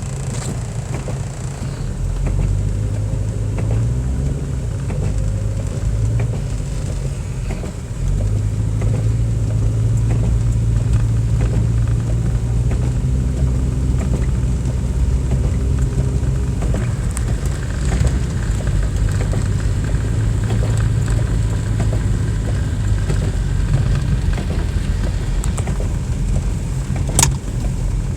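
Car driving, a steady low engine and road rumble that grows louder about two seconds in and again about eight seconds in, with a single sharp click near the end.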